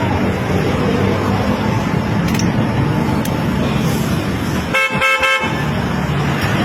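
Steady road-traffic rumble, with a car horn giving three quick short toots about five seconds in.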